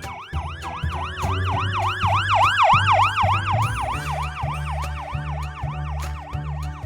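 Emergency-vehicle siren in a rapid yelp, rising and falling about four times a second, swelling to its loudest about three seconds in and then easing off, over background music with a steady beat.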